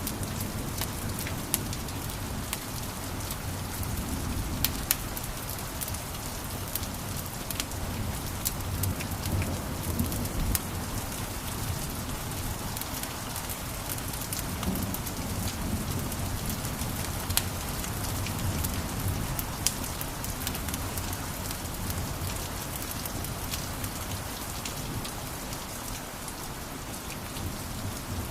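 Wood fire in a fireplace crackling steadily, with frequent sharp pops and snaps over a low rumble of the flames.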